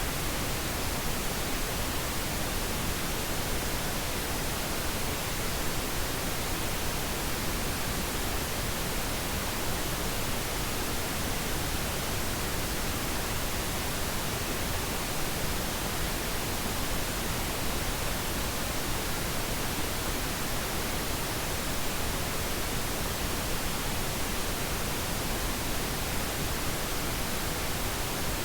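Steady pink noise: an even, unchanging hiss spread across the whole range of pitch, played as a sleep aid for a baby.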